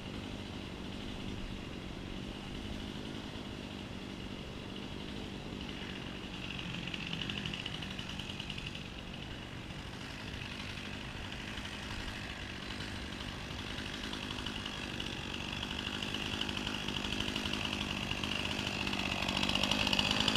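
Chainsaw engine idling steadily, growing somewhat louder toward the end.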